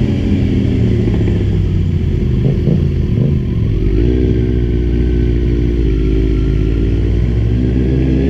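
Kawasaki Z1000's inline-four engine running under way. The note wavers and dips briefly about three seconds in, then holds at steady revs.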